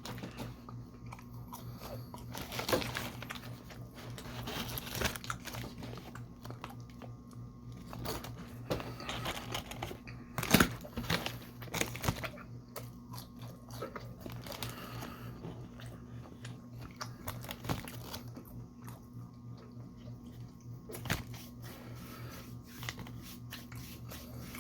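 Eating sounds from a Burger King meal: irregular bites, crunchy chewing and mouth clicks, with a steady low hum underneath.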